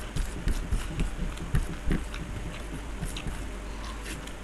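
Close-miked eating sounds: chewing with irregular wet mouth clicks and smacks, busiest in the first two seconds and thinning out after that.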